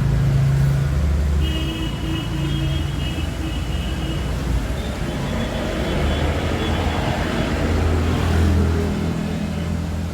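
A motor vehicle engine running with a steady low rumble, its pitch shifting up and down. A faint high steady tone comes in about a second and a half in and lasts about two seconds.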